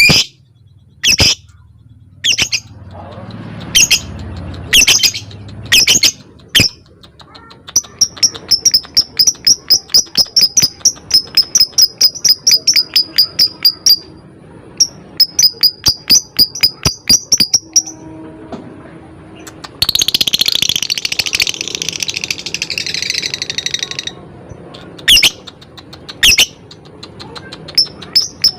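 Lovebird calling: loud, shrill single chirps, then long fast runs of sharp chirps at about five a second, the rattling 'ngekek' song. About two-thirds of the way through comes a few seconds of dense chattering, and single shrill chirps return near the end.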